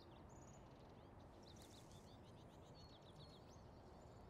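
Near silence: faint outdoor background with small birds chirping, many short high chirps.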